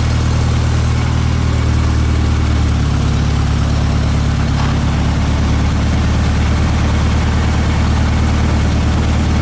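1951 Commer light truck's engine idling steadily, running again after some twenty years standing unused.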